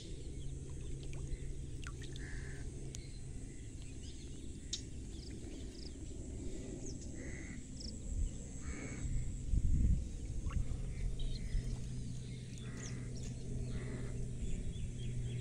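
Outdoor ambience of scattered short bird chirps over a steady low hum, with a muffled low thump about ten seconds in.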